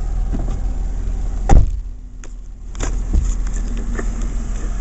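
Stopped vehicle with its engine idling, a steady low rumble heard from inside the car, with one sharp loud thump about a second and a half in and a few lighter knocks and clicks after it.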